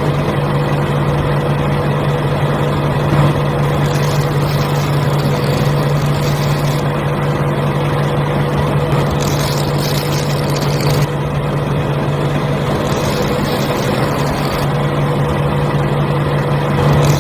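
Small electric motor running steadily with a constant low hum.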